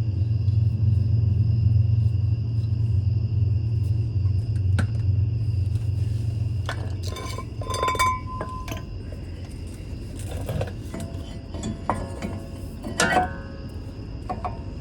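Metallic clinks and clanks as a cast iron brake rotor is slid onto a wheel hub, one knock briefly ringing. A low rumble underlies the first half and fades about midway.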